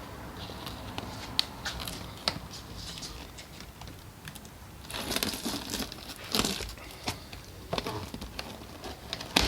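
Packaging wrap crinkling and tearing as a firework canister shell is cut free and unwrapped, with scattered sharp clicks and a louder stretch of rustling about five to six seconds in.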